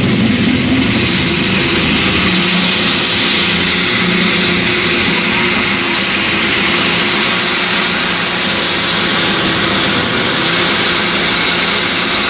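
A competition pulling tractor's engine running at full power during a pull: a loud, steady, dense engine and exhaust noise with a faint rising pitch in the first second, holding even throughout.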